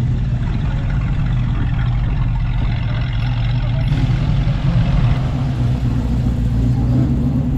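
A car engine idling steadily with an even low hum.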